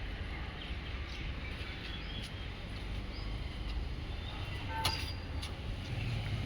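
Low, steady rumble of a Toyota Etios car being driven, engine and road noise, with a couple of short sharp clicks about five seconds in.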